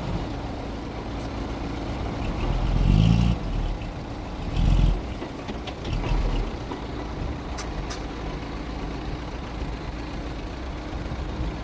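Mitsubishi bulldozer's diesel engine running steadily, with three brief louder surges in the first half as it takes load.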